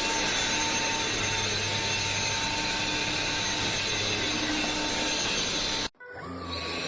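Sulean X8 cordless stick vacuum running steadily: a rush of airflow over a low motor hum and a thin high whine. About six seconds in it cuts out abruptly for a split second, then runs again.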